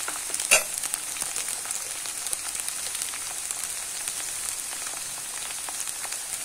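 Chopped onions, green chillies and ginger-garlic paste frying in hot oil in a pan, the onions already golden brown: a steady sizzle full of fine crackling, with one sharper click about half a second in.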